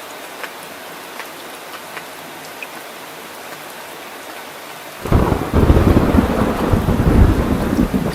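Steady rain with scattered individual drop ticks. About five seconds in, a loud, deep rumble of thunder breaks in suddenly and keeps rolling over the rain.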